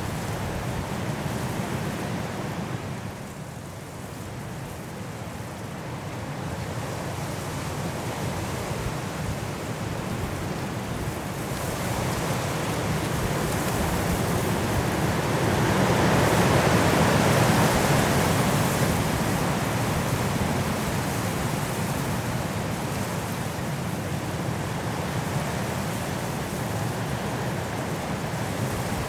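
Strong wind blowing through forest trees in a snowstorm, a steady rushing that eases a few seconds in and then builds to a louder gust around the middle before settling again.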